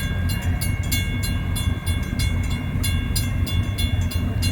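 Railroad crossing bells ringing rapidly, several strikes a second, over the steady low rumble of a Union Pacific freight train at the crossing.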